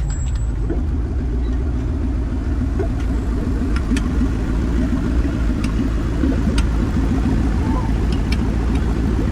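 A car engine idling steadily, with people talking in the background and a few scattered clicks.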